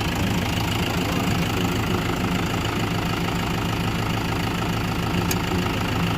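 Mahindra 575 DI Bhoomiputra tractor's diesel engine idling steadily.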